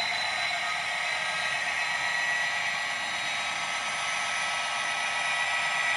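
Hornby Twin Track Sound decoder in an OO gauge Class 67 model playing its diesel engine sound through the model's small speaker: a steady, thin running sound with no bass and a faint steady whine.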